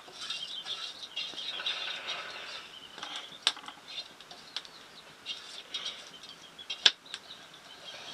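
Small birds chirping, with a few sharp knocks or clicks, the loudest about three and a half seconds in and again near seven seconds.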